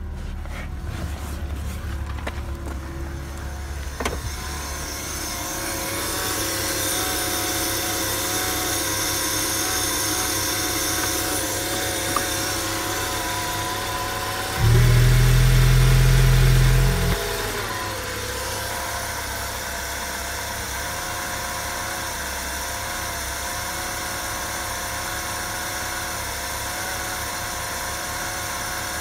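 BMW M43B16 1.6-litre inline-four engine running steadily at idle, about 1000 rpm. Past the middle comes a loud low rumble for about two seconds, after which the engine note settles slightly lower.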